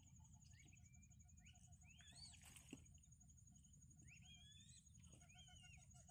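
Faint wild bird calls: several short whistles that rise and fall, with a fast pulsing chatter, over a steady thin high-pitched tone. A single small click sounds about two and a half seconds in.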